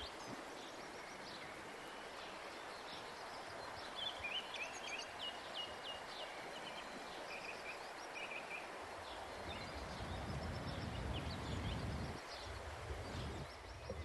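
Faint outdoor ambience: small birds chirping in short repeated calls over a low steady hiss.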